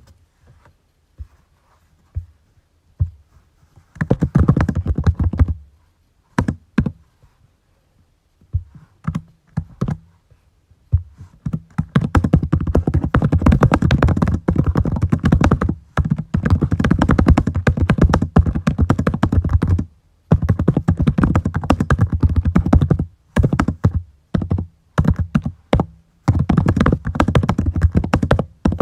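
Typing on a computer keyboard: fast runs of key clicks lasting a few seconds each, broken by short pauses, after a few isolated taps in the first seconds.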